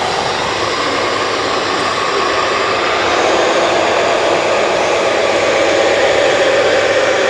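Steady whirring of radio-controlled model construction machines' electric motors, growing a little louder about three seconds in.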